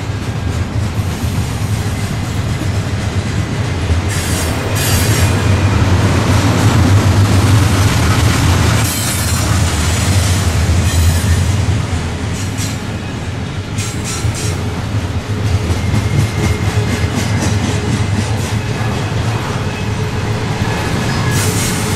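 Double-stack intermodal freight train's well cars rolling past: a steady heavy rumble with irregular clacks of the wheels over the rail joints.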